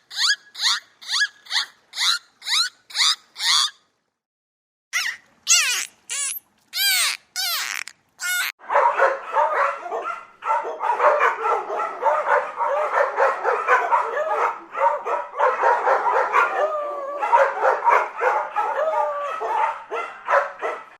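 Dogs calling in a series of clips. First comes a quick even run of yips, about three a second. After a short gap there are a few louder barks with bending pitch. Then, from about eight seconds in, many dogs whine and yelp at once in a dense overlapping chorus.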